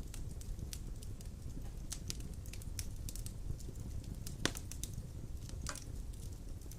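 Wood fire burning in a stone fireplace: a low rumble of flames with scattered small crackles and two louder pops, one about four and a half seconds in and one near six seconds.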